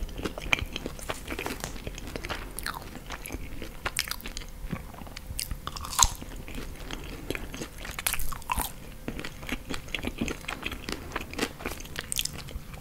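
Close-miked chewing and crunching of crispy French fries, with many short mouth clicks. One sharp crunch stands out about six seconds in.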